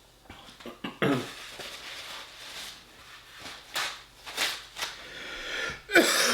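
A man letting out wordless groaning sighs, falling in pitch, about a second in and again near the end, with breathy exhales and sniffs between.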